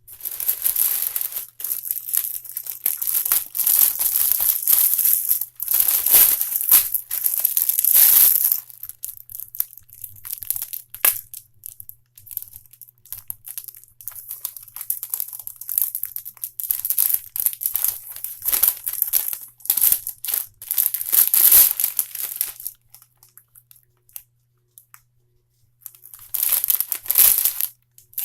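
Packaging crinkling and rustling as it is handled and pulled apart, in irregular spells. It is densest in the first nine seconds, thins out, pauses about three-quarters of the way through, then starts again briefly near the end.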